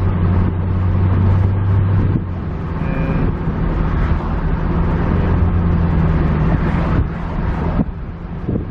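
Car engine running, heard from inside the cabin as a steady low hum with road and cabin noise, quieter near the end. A brief electronic tone sounds about three seconds in.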